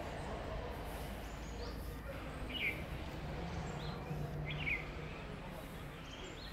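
Outdoor ambience: a steady hiss with short, high bird chirps, the two clearest about two and a half and four and a half seconds in.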